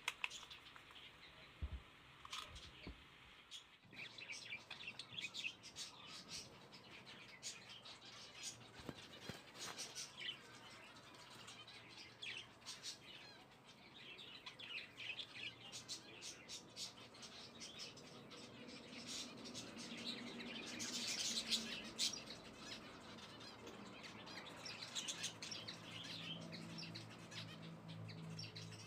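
Faint chirping of small birds: many short, high chirps scattered throughout, with a low steady hum coming in near the end.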